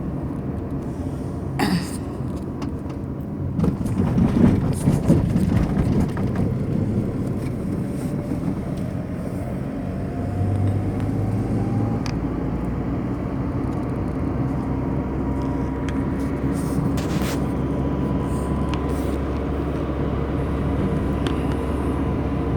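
Steady engine rumble, louder and rougher for a couple of seconds about four seconds in, with a whine that rises from about six seconds in and then holds steady.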